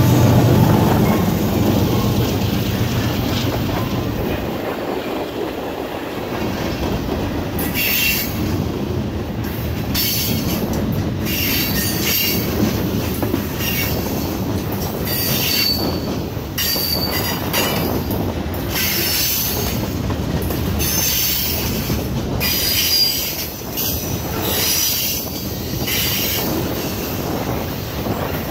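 Freight cars of a Norfolk Southern train rolling past close by: a steady rumble of steel wheels on rail, with brief high-pitched wheel squeals coming and going. A low diesel engine hum from the passing locomotive fades out over the first few seconds.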